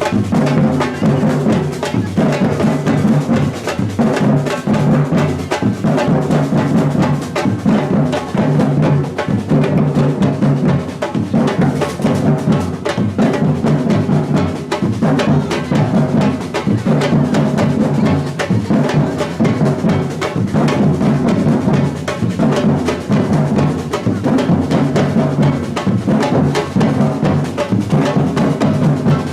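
Batucada samba percussion group drumming a steady, fast rhythm. Deep bass drums sound in a repeating pattern under dense snare strokes.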